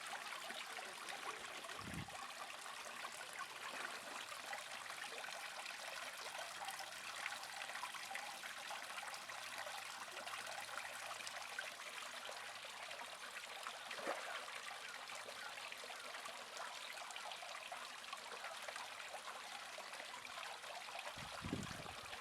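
Water trickling steadily and faintly into a garden fish pond, with a few soft low thumps along the way.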